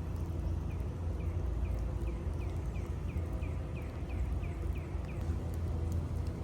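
Steady low rumble of city street ambience, with a quick run of about a dozen short, falling chirps, a little over two a second, through the middle.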